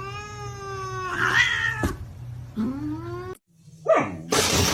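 A cat meowing: one long drawn-out meow of about two seconds, then a shorter meow rising in pitch. Near the end a loud, noisy rushing sound starts.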